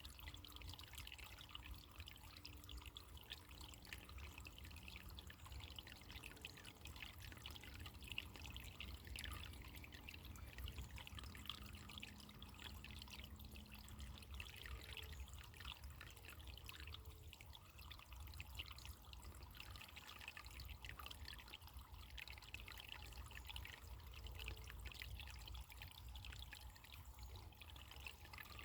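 Running water trickling and splashing steadily, like a small stream, heard faintly.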